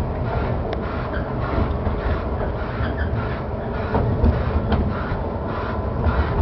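Amusement-park ride train running along its track, heard from inside the open carriage: a steady low rumble with a couple of sharp clicks.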